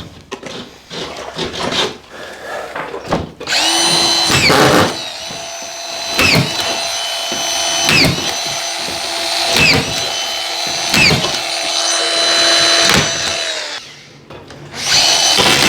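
Power screwdriver driving screws into a plasterboard ceiling sheet: a steady motor whine with a short dip about every one and a half seconds as each screw seats. Scattered handling knocks come before it starts, about three seconds in, and it stops briefly near the end before starting again.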